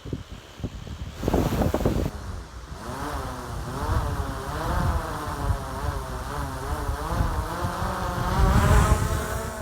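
DJI Mavic Pro Platinum drone's motors and propellers whining, the pitch wavering up and down as the motors keep adjusting speed, with low wind rumble on the microphone and a gust about a second in.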